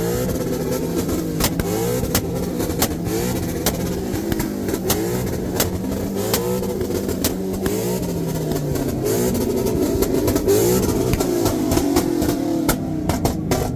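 Mercedes 190E's 2.0-litre four-cylinder M102 engine revved in repeated blips, its exhaust banging and popping as it shoots flames.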